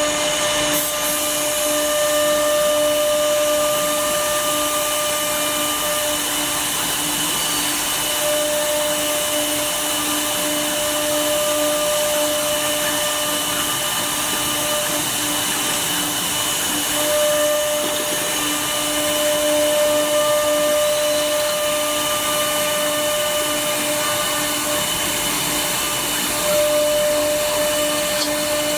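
CNC router spindle running and cutting wood: a steady whine over a dense, even noise of cutting, with the higher tones dropping in and out now and then.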